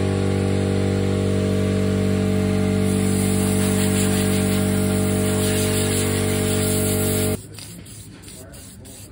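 Chrysler 440 big-block V8 idling steadily during its first runs after the engine swap. It cuts off suddenly about seven seconds in, leaving faint rubbing and clicking.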